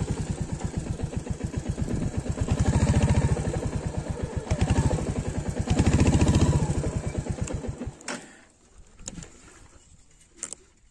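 Royal Enfield Hunter 350's single-cylinder engine idling with an even beat of exhaust pulses. It is revved briefly twice, then cuts off about eight seconds in as the bike is switched off. A few faint clicks follow.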